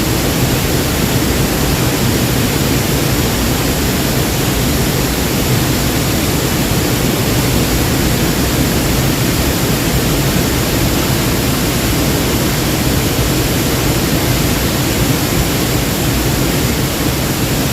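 Waterfall: a steady, loud rush of falling and splashing water that stays even throughout.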